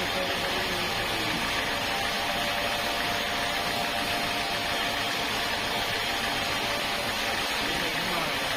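Sawmill saw machinery running steadily: an even, constant mechanical noise with a faint steady whine.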